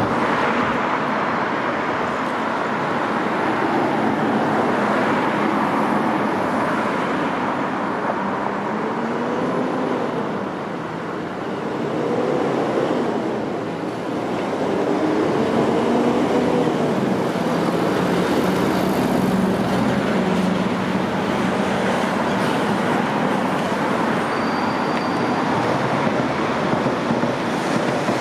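Electric multiple-unit trains running on the lines below the flyover: Class 450 Desiro units approaching on the fast line, with a steady rumble of wheels on rail. A wavering, rising and falling hum comes in about a third of the way through and fades a little past the middle.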